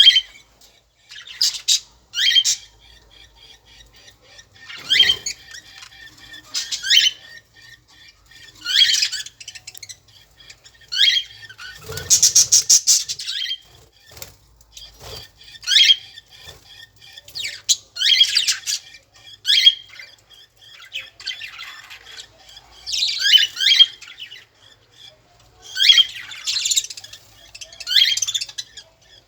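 Birds squawking: short, harsh calls that fall in pitch, repeated every second or two, with a longer rapid rattling call about twelve seconds in.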